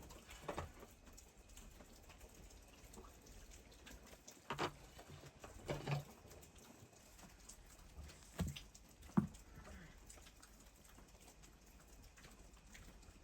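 A handful of separate short knocks and thuds, about six in all at irregular spacing, the sharpest about nine seconds in, over a quiet background.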